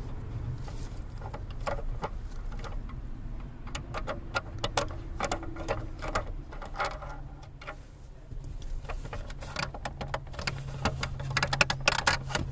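Irregular clicking and rattling of hand tools and plastic steering-column trim being worked on, the clicks coming thicker near the end, over a steady low hum.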